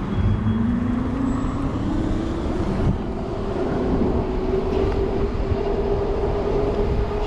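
Electric bike hub motor whining as the bike accelerates: the pitch rises over the first few seconds, then holds steady at cruising speed. Low wind rumble runs underneath.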